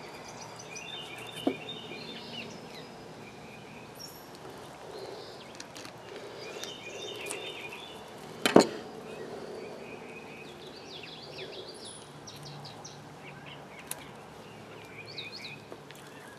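Small birds chirping and singing in short repeated phrases, with a few soft clicks and one sharp knock about eight and a half seconds in.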